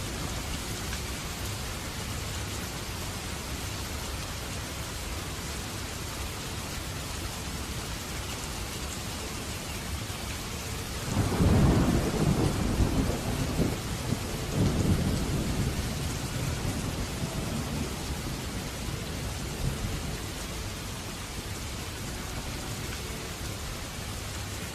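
Steady heavy rain, with a roll of thunder about halfway through that rumbles loudly for several seconds, swells twice and dies away.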